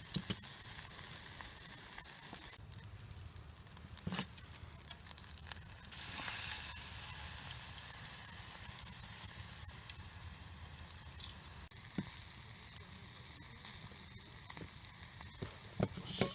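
Beef tallow melting and sizzling on a hot grill over a campfire, a steady hiss that grows louder about six seconds in, with a few light taps.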